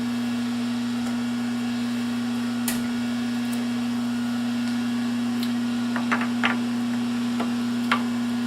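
Metal lathe running with a steady, even hum, not cutting. A few light clicks come about three, six and eight seconds in.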